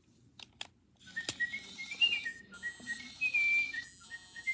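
Clever Keet robotic parakeet toy whistling through its speaker during its eating routine: a run of short chirped notes hopping up and down in pitch, starting about a second in after a few faint clicks.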